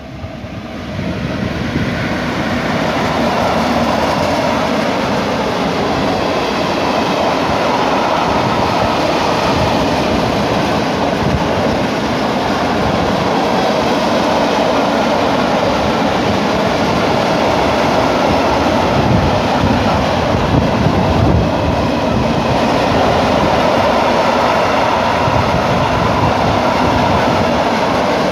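Freight train hauled by two EU07 electric locomotives, approaching and passing close by, followed by a long string of open coal wagons rolling past on steel wheels. It grows louder over the first few seconds, then keeps up a steady, loud rumble as the wagons go by.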